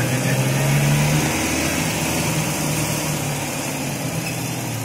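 Mahindra Bolero's engine and road noise heard from inside the cabin while driving. The engine hum is steady, with its pitch stepping up briefly near the start before settling back.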